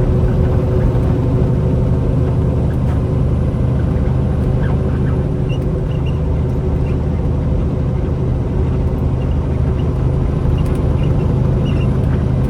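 Semi-truck's diesel engine and road noise, a steady low drone while driving at cruising speed.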